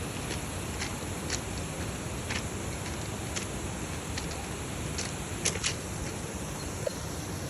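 Steady rushing outdoor background noise with scattered, irregular sharp clicks and taps; a pair of louder clicks comes about five and a half seconds in.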